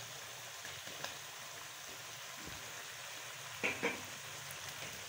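Chicken, ginger-garlic paste and freshly added tomato wedges frying in oil in a kadhai, a steady low sizzle, with a brief knock or two about three and a half seconds in.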